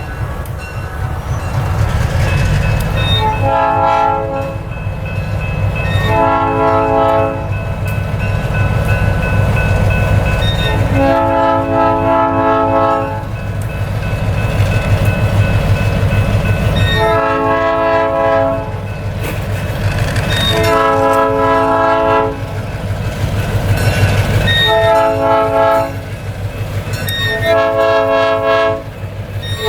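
EMD SW1200 switcher locomotive sounding its cast Nathan P3 air horn in seven separate blasts, the third one longer than the rest, over the low rumble of its diesel engine.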